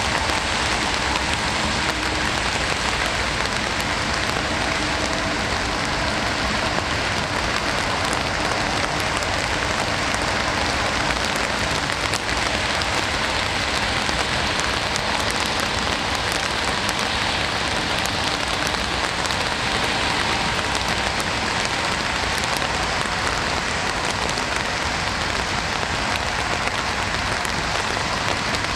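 Steady rain falling, a dense, even hiss with many fine drop ticks.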